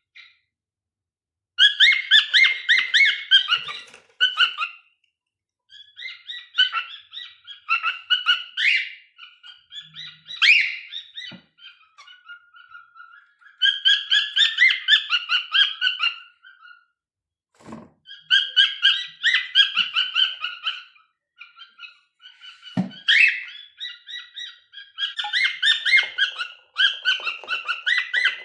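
Cockatiels singing: bouts of rapid, warbling chirps a few seconds long with short pauses between them, and a couple of brief soft knocks in the second half.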